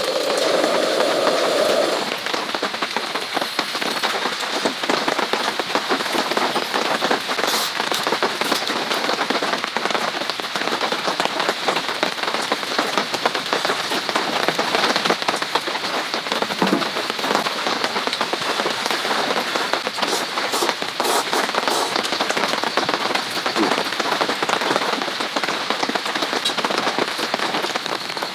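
Steady rain falling, a dense haze of many small drop ticks. A louder, lower rushing sound is mixed in for the first two seconds.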